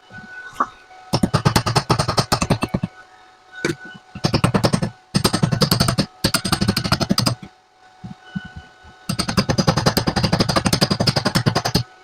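Stick (arc) welding with an ordinary 2.5 mm steel electrode on a cast-iron bench vise. The arc crackles in rapid pulses in four runs, stopping briefly between them as the arc is broken and struck again.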